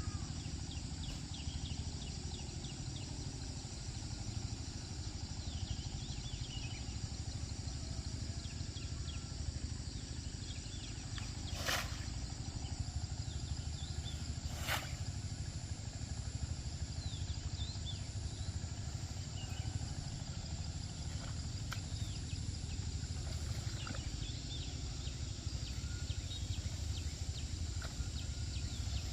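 Rural outdoor ambience: small birds chirping now and then over a steady low rumble, with two sharp clicks about halfway through.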